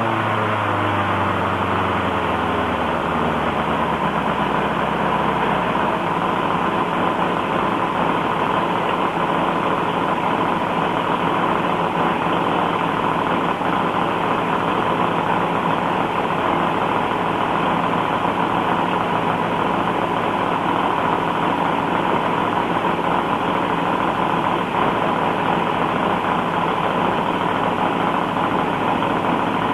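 Kinner K5 five-cylinder radial engine running. Its pitch drops over the first few seconds, then it runs steadily.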